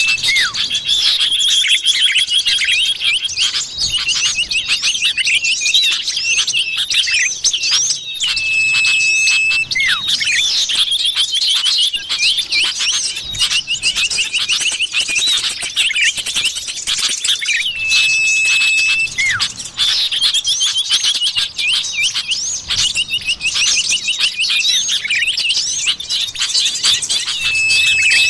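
Common iora (cipoh) calls played as a bird lure: a long flat whistle, then a dense run of rapid high chirps and trills. The same sequence repeats about every nine and a half seconds.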